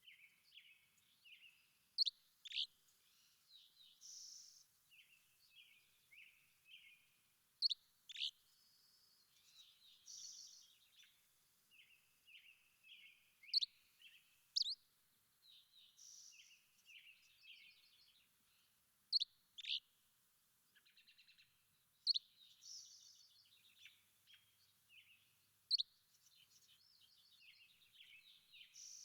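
Songbirds singing: a busy run of short, varied chirps and twitters, broken every five or six seconds by a pair of loud, sharp, whistled notes.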